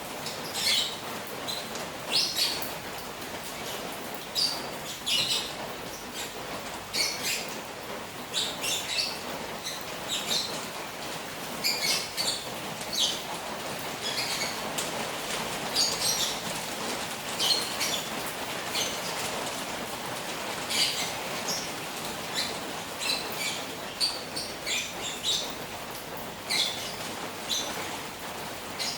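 Steady rain falling on a koi pond, with short high chirps sounding over it every second or so.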